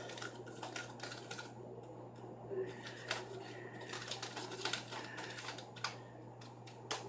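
Stirring a thick soap-and-salt slime mixture, a utensil making irregular light clicks and taps against its container.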